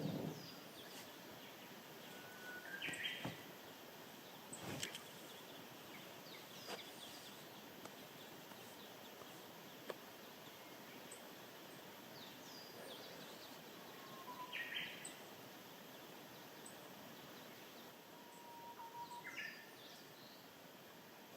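Small birds calling now and then, with short chirps and brief phrases, over a quiet outdoor background. A few faint, sharp clicks fall between the calls.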